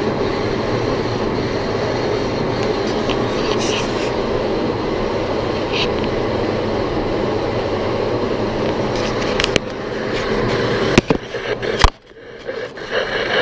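Boring machine running as its cutter bores out the inside of a vacuum compressor housing, a steady mechanical noise. Near the end come a couple of sharp knocks and the noise drops away briefly before it picks up again.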